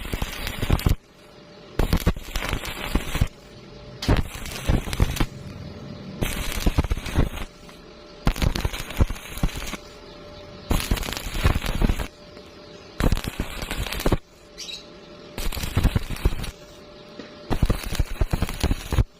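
Electric welding arc crackling in short bursts of about a second, struck again roughly every two seconds, with quieter gaps between: a run of short welds or tacks.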